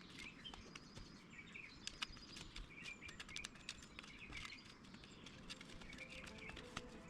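Faint outdoor birdsong: small birds chirping in short repeated calls, with scattered light ticks and clicks throughout.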